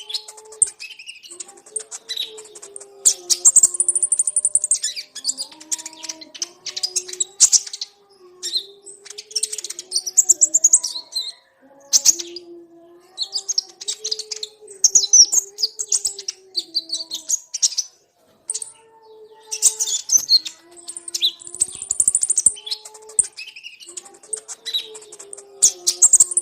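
A flock of konin birds calling: quick, high-pitched chirps and twitters in bursts of a second or two with short pauses between them. Under the chirping runs a lower, wavering whistle-like tone.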